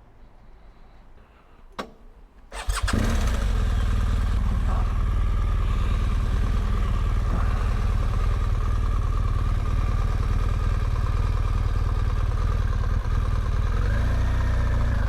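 BMW GS motorcycle engine starting: a click about two seconds in, a brief crank, and the engine catches and runs steadily. Near the end its pitch begins to rise and fall.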